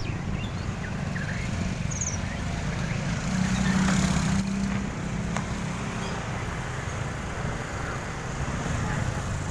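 Steady low rumble of a vehicle on the move, with a low hum that swells about four seconds in. A few faint short high chirps sound in the first two seconds.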